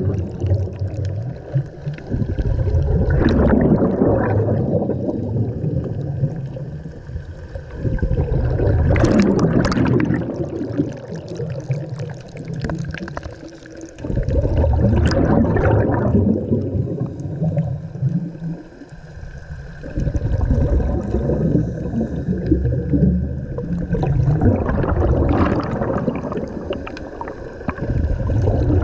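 Scuba diver's breathing heard underwater through the regulator: repeated bursts of exhaled bubbles gurgling, about every five to six seconds, with quieter inhalations between.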